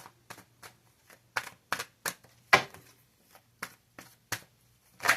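Tarot cards being shuffled by hand: a quick, irregular run of sharp card snaps and slaps, some louder than others, over a faint steady hum.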